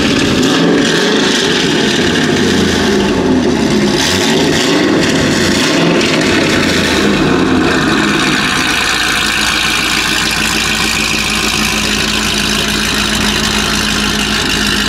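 A vehicle's engine running close by, revved unevenly at first, then settling to a steady idle about eight seconds in.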